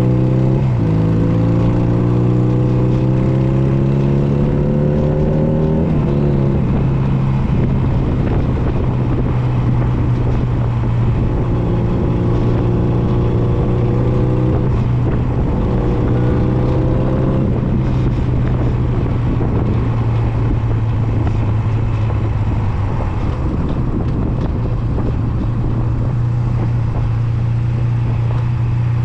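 Honda Nighthawk 250's air-cooled parallel-twin engine under way. It pulls up in pitch for the first few seconds, drops sharply about six seconds in as the rider shifts up or rolls off the throttle, then cruises with smaller rises and dips, under steady wind and road noise.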